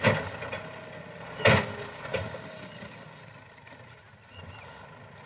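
Diesel machinery engine running steadily, with two sharp knocks about a second and a half apart.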